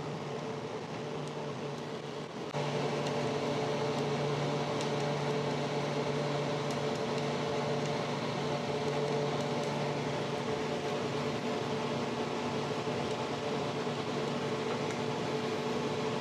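Steady motor hum, like a fan or air-conditioning unit running, which steps up louder about two and a half seconds in and then holds steady.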